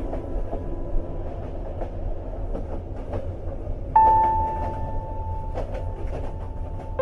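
Train running on rails: a steady low rumble with scattered faint clicks. About four seconds in, a single held piano note sounds over it.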